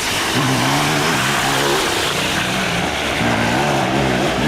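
Dirt bike engine revving up and down as the bike rides through a flooded creek crossing, with a steady rushing hiss of water and exhaust under it.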